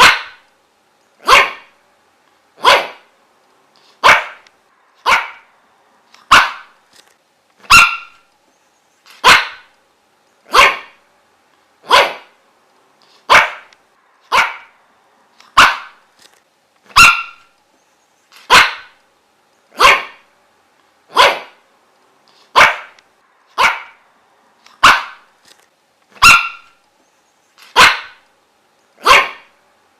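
A dog barking in single sharp barks at a steady pace, about one every second and a half, each short and cut off quickly, with no break.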